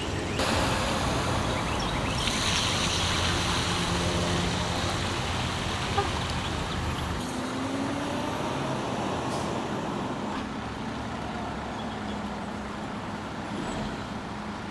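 Heavy vehicle engines running with road traffic noise, a broad hiss louder in the first half that eases off after about seven seconds.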